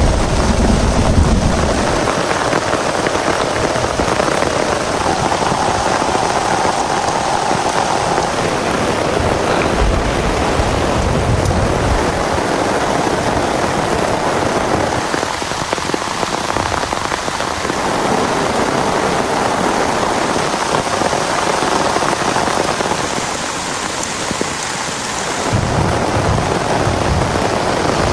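Heavy rain pouring steadily, with a low rumble in the first two seconds and again near the end.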